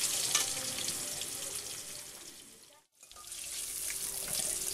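Potato chunks frying in hot oil in a metal kadai, a steady sizzle with the occasional clink of a metal spatula stirring them. The sound fades away and drops out briefly a little under three seconds in, then comes back.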